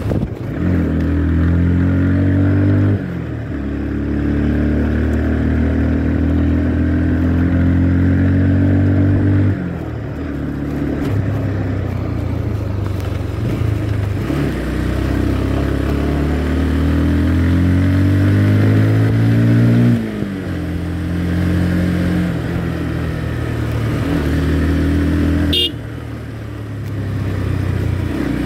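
Motorcycle engine pulling hard through the gears: each time its note climbs steadily, then drops sharply as the rider shifts up, about four times. A short high beep sounds near the end.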